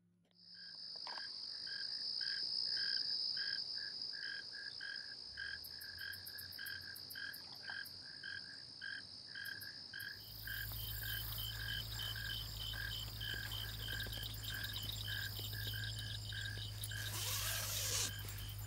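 Night chorus of crickets and frogs: a steady high-pitched insect trill with a pulsing call repeating about three times a second. About ten seconds in, a low steady hum joins underneath.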